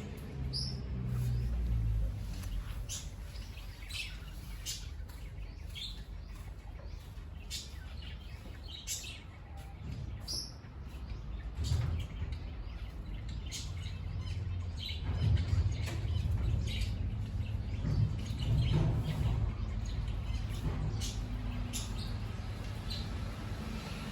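Aviary birds chirping: many short, scattered chirps from a mixed flock of bulbuls, zebra finches, lovebirds and mynas, over a low rumble.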